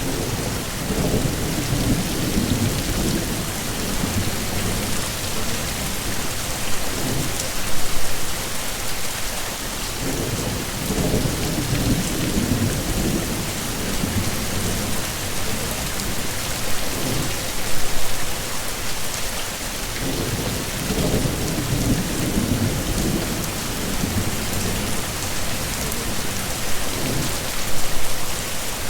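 Heavy, steady rain hissing, with low rolling thunder rumbling up and fading away three times, about ten seconds apart.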